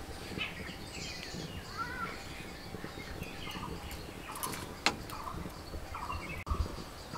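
Birds chirping and calling in short, repeated notes, with one sharp click about five seconds in.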